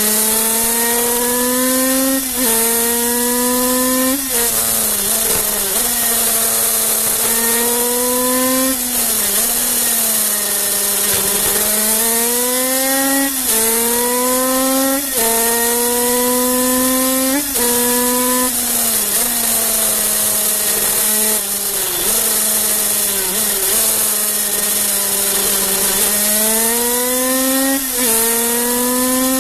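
Kreidler 50cc two-stroke single-cylinder racing engine under way, revving up in repeated rising climbs that drop sharply at each upshift, and falling in pitch a few times as it slows for corners. A steady rush of wind runs underneath.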